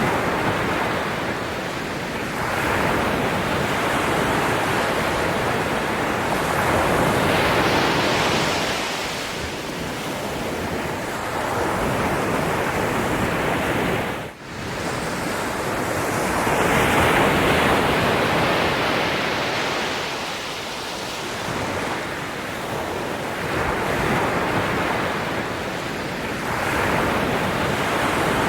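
Ocean waves washing onto the shore, one surge after another every few seconds, each swelling and fading away. There is a brief sudden dip in the sound about halfway through.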